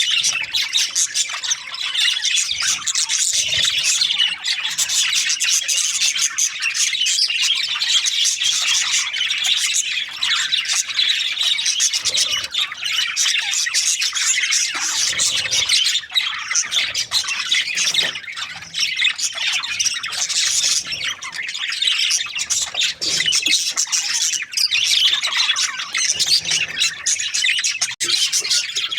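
Many budgerigars chattering and chirping at once, a dense, unbroken mass of overlapping high squawks and chirps.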